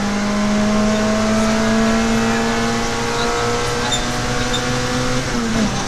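Peugeot 106 XSi rally car's four-cylinder engine heard from inside the cockpit, its note rising slowly as the car drives the stage, then dipping sharply for a moment near the end.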